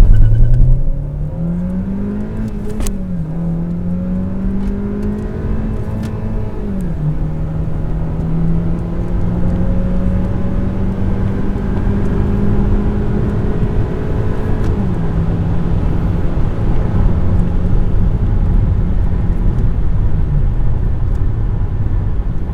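2012 Chevy Cruze RS's turbocharged four-cylinder engine accelerating hard from a standstill under full throttle with a manual gearbox. The revs climb and drop back at gear changes about 3 and 7 seconds in, then pull steadily higher, with two more shifts in the second half.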